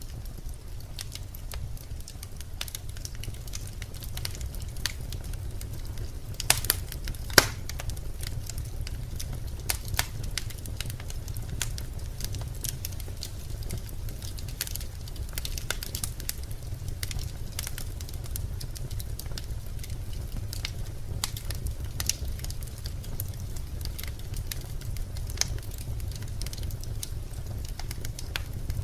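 Birch logs burning in a fireplace: a steady low rumble of the flames with frequent sharp crackles and pops, two louder pops a little over six and seven seconds in.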